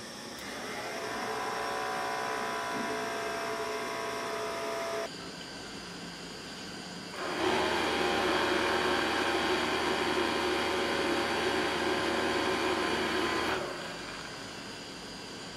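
Small electric fan motor running in two spells. It spins up about half a second in and cuts off suddenly around five seconds. It starts again, louder, a couple of seconds later, and runs down about six seconds after that.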